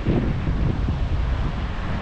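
Wind buffeting the microphone: a loud, steady rumble with no distinct events.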